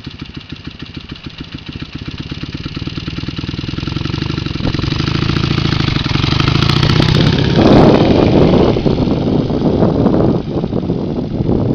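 Motorcycle engine running at a steady throttle, its firing pulses growing louder as the bike comes closer. A rushing noise joins in at about eight seconds, where it is loudest.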